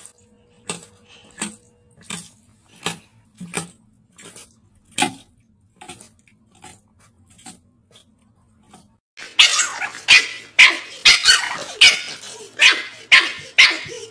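A dog barking in short single barks spaced about half a second to a second apart, then a louder, busier run of sound from about nine seconds in.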